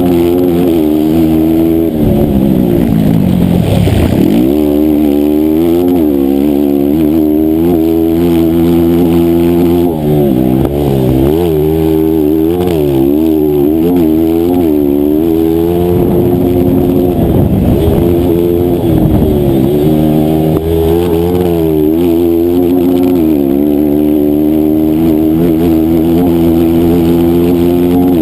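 A 160cc racing motorcycle's single-cylinder engine running hard, its pitch rising and falling repeatedly as it is revved up and backed off through the laps. About four seconds in, the pitch drops deeply and climbs back.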